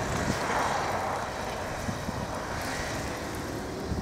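A steady engine drone in a snowstorm.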